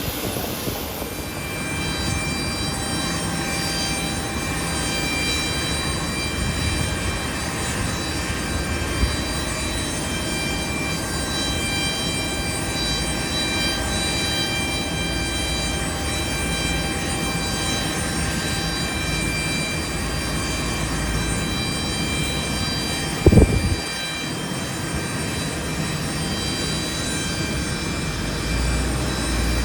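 Airliner engines running steadily with a high whine and a sustained rush. About 23 seconds in there is a brief loud bump.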